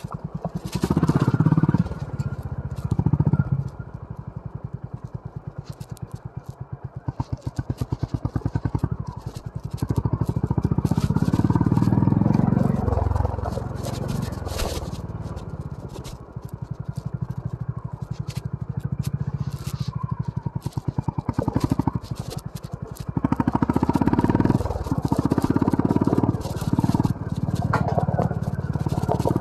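Honda CB350 RS single-cylinder engine riding on a rough trail, the throttle opened in surges: briefly a second or two in, again around the middle, and for several seconds near the end, easing back to a lower pulse between.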